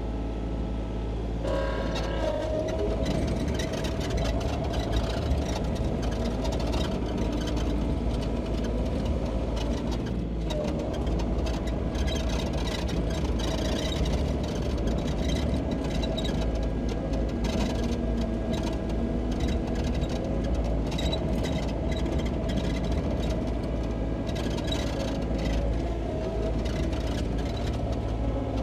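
Sany SY35U mini excavator running and working, its diesel engine humming steadily with a whine that shifts in pitch a couple of times, as it pushes snow. Many short clicks and knocks are heard over the engine throughout.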